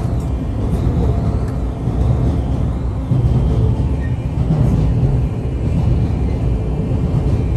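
Long Island Rail Road train running, a steady low rumble heard from inside the passenger car.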